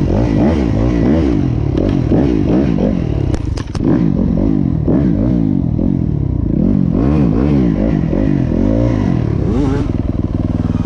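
Motocross dirt bike engine running hard, its pitch rising and falling again and again as the throttle is worked through the track, with a few brief clacks about three and a half seconds in.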